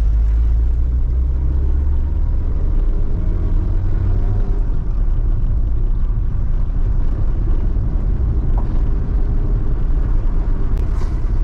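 Camper van driving: steady engine and road rumble with a low engine drone that shifts and fades about four and a half seconds in.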